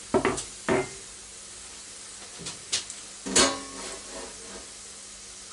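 Pork rinds (torreznos) frying in a pan of their own rendered fat, with a steady sizzling hiss. A few sharp clinks and knocks break through it, the loudest about three and a half seconds in.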